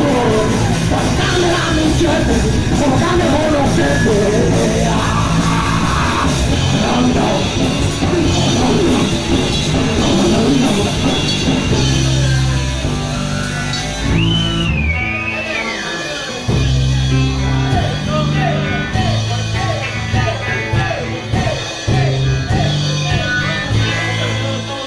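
Live punk rock band playing, with sung and shouted vocals over drums and loud amplified instruments; the playing thins out somewhat about halfway through.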